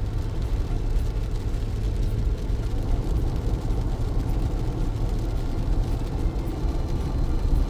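Car driving through heavy rain: a steady low rumble of tyres on wet road and engine, with a faint spatter of rain ticking on the car.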